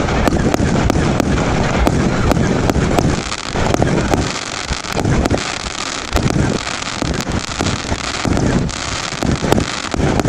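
16-shot consumer firework cakes firing a continuous run of shots, with wind buffeting the microphone.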